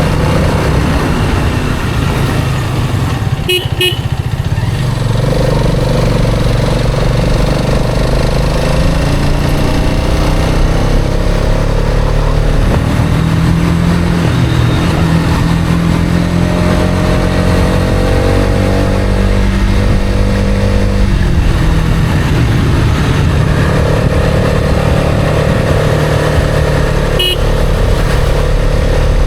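Hero Karizma XMR's 210 cc single-cylinder engine riding along, its pitch climbing and dropping several times as it accelerates and shifts, over heavy wind rumble on the microphone. Two brief horn beeps, one about 4 seconds in and one near the end.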